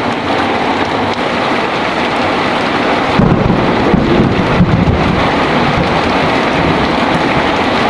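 Heavy rain falling steadily, with a low rumble of thunder that starts about three seconds in, peaks over the next two seconds and then fades back under the rain.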